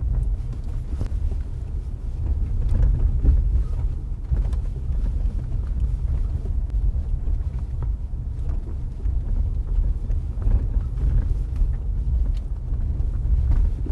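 Front suspension area of a 2018 Honda Accord 2.0T while driving slowly over road seams: a steady low road rumble with scattered dull knocks ("tum"), which the mechanic thinks is typical of a loose engine splash shield.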